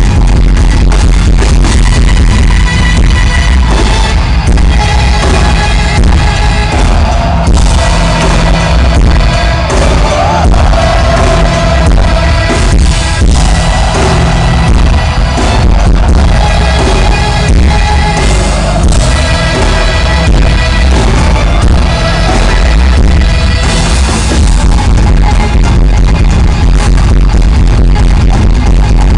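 Loud live music with a heavy bass and a steady beat, with singing at times.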